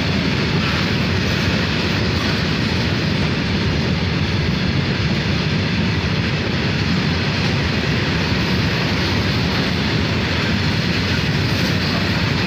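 Fully loaded open coal wagons of a freight train rolling past at speed: a steady, loud noise of steel wheels running on the rails.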